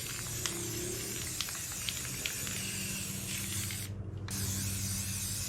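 Paint being sprayed in a steady hiss that breaks off briefly about four seconds in, as the spray is let off and started again, over a low steady hum.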